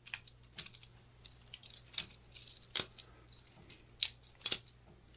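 Boker Plus balisong butterfly knife being flipped by hand: the handles and blade clack together in a string of sharp, unevenly spaced clicks, about six in a few seconds.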